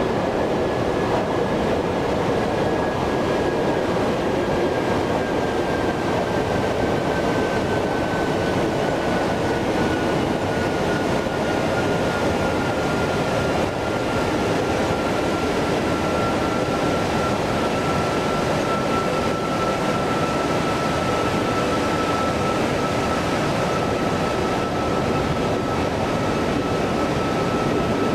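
Airbus A330-300's jet engines running, a loud steady rushing noise with a high whine that slowly falls in pitch.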